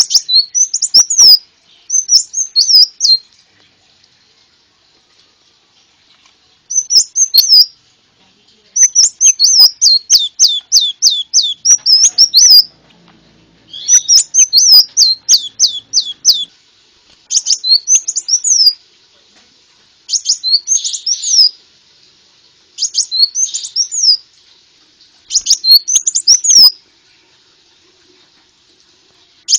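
Konin sunbird song played as a lure recording: short bursts of high, rapid chirps and trills, repeated every couple of seconds with brief pauses between phrases.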